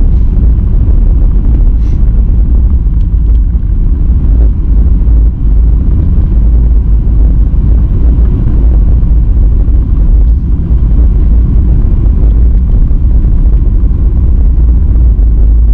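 Car driving, a steady loud low rumble of engine and road noise.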